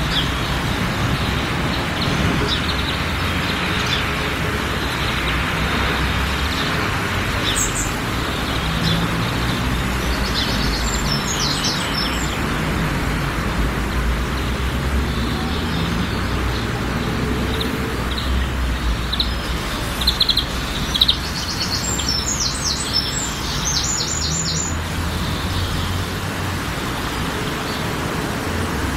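Outdoor garden ambience: a steady hiss and low rumble, with small birds chirping in short quick runs, most busily around twenty seconds in.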